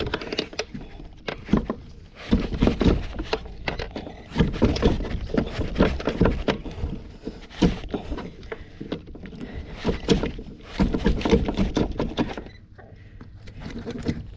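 Freshly landed barracuda thrashing on a plastic kayak, a dense run of irregular knocks and slaps against the hull that settles near the end.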